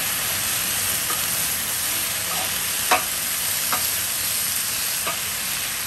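Diced red potatoes and bell peppers sizzling in a skillet on a gas burner while being stirred with a spatula. A few clicks of the spatula against the pan, the sharpest about three seconds in.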